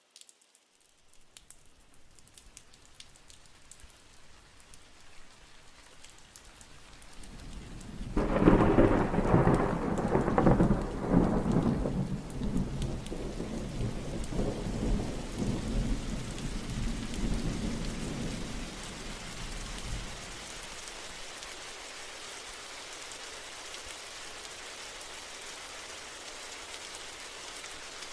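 A long peal of thunder that builds, peaks about eight seconds in and rolls away over the next ten seconds, over steady rain that carries on alone afterwards.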